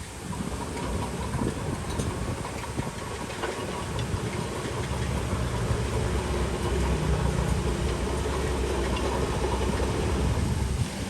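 Heavy earthmoving machine's diesel engine running, growing louder and steadier about four to five seconds in, with a few sharp clicks early on.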